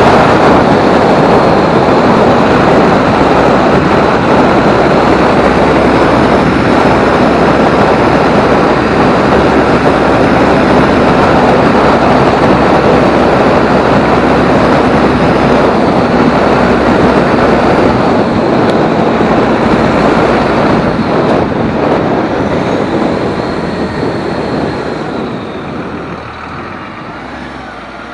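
24-valve Cummins diesel running loud, with a high turbocharger whistle that rises and falls above the engine noise. The sound fades over the last several seconds.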